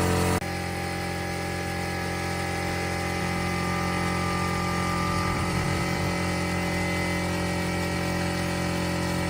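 A machine running steadily with an even hum, with an abrupt change in level and tone about half a second in.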